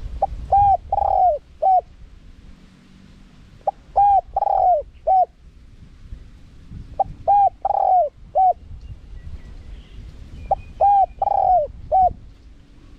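Spotted dove cooing in a repeated phrase of short notes and a longer drawn-out note, four times at even intervals a few seconds apart.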